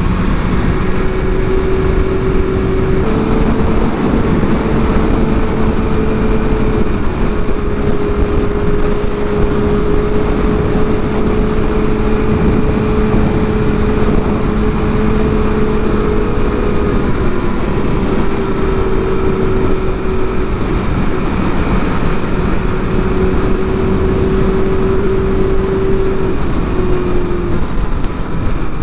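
Sport bike engine running at a steady highway speed, an even drone with a heavy rush of wind over the rider's microphone; the engine note shifts slightly up or down a few times.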